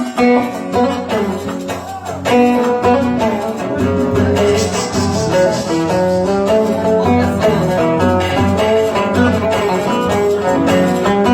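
Oud playing a Yemeni San'ani melody, a quick, continuous run of plucked notes.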